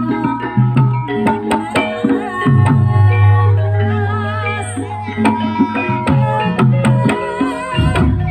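Traditional Javanese music: hand drums beating in a quick rhythm over a melody on struck tuned percussion, with a long low tone held through the middle.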